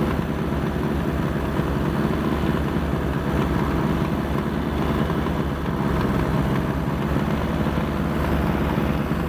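Allis-Chalmers D14 tractor's four-cylinder engine running steadily with an even low throb.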